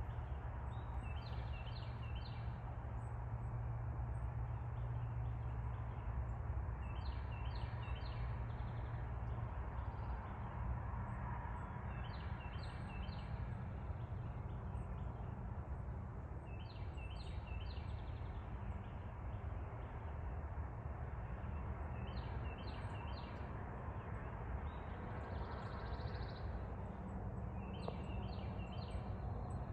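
A songbird repeating a short phrase of three or four quick high notes about every five seconds, over a steady low rumble.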